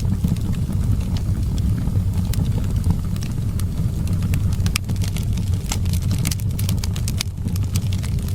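Wood fire crackling, with frequent sharp pops and snaps that come thicker in the second half, over a steady low wind rumble.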